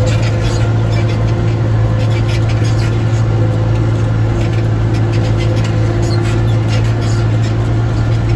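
Tractor engine running at a steady speed under way, with a constant low drone and light intermittent rattling.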